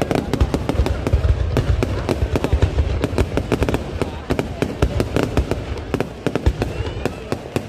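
New Year fireworks display going off in a dense, rapid volley of sharp bangs and crackles over a low rumble. The sound cuts off suddenly at the very end.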